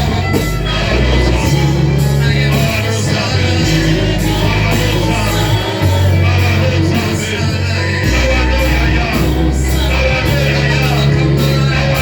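Live church worship band playing loudly, with a heavy bass line moving between notes every second or two and voices singing along.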